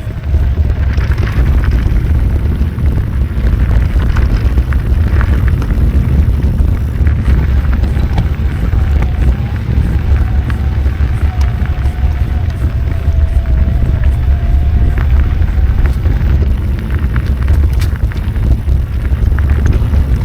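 Heavy, steady wind rumble buffeting a moving microphone, with scattered clicks and rattles throughout and a faint wavering whine in the middle.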